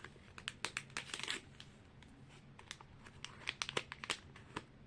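Small plastic blind bag crinkling as it is torn open and handled. Quick irregular crackles, bunched in the first second or so and again near the end.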